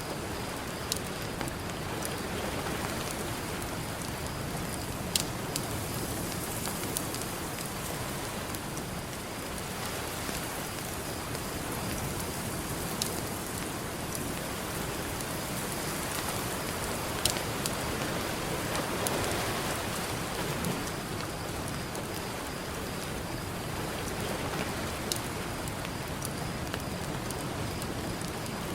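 Campfire crackling, with a few sharp pops scattered through it, over a steady hiss of ocean surf that swells a little about two-thirds of the way in.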